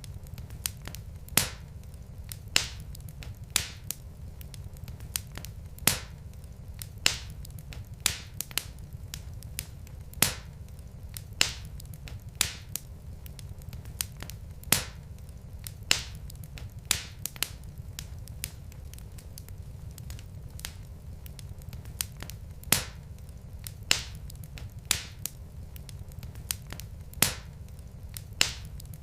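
Wood fire burning in a fireplace: sharp, irregular crackles and pops, about one or two a second, over a steady low rumble of the flames.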